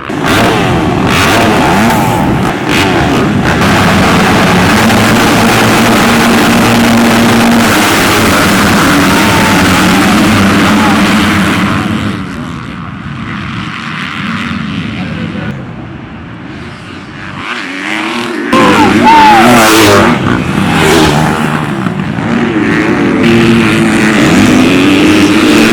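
Several motocross dirt bike engines revving and accelerating around the track, their pitch sweeping up and down as they shift and pass. The engines fade somewhat for a few seconds midway, then come back loud all at once.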